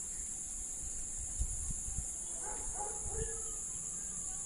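Steady, high-pitched, unbroken drone of an insect chorus, such as crickets, with a few faint, brief sounds a little past halfway.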